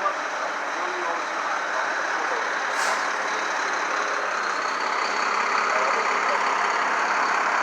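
Steady street noise with a heavy truck running, growing slightly louder, and a short hiss about three seconds in.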